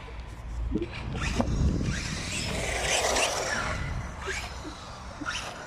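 Brushless 1/10 RC monster truck (Helion Avenge 10MT XLR) driving, its tyres and drivetrain making a hissing rush that swells to a peak about three seconds in and then fades as it passes.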